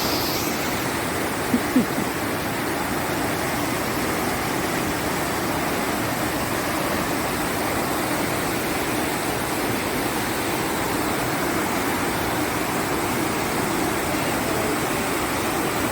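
River water rushing steadily over boulders in a rainforest gorge, an even, unbroken noise. Two brief low blips sound about a second and a half in.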